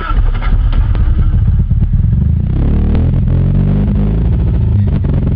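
Starter motor cranking a Toyota Corolla DX's carburetted 4K engine in −10 °C cold, a loud steady grinding churn that does not catch into a run. The owner puts the failure to start down to the carburettor having run out of petrol.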